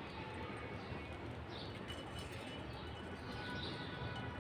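Budgerigars chirping, a few short high chirps over a steady background hiss.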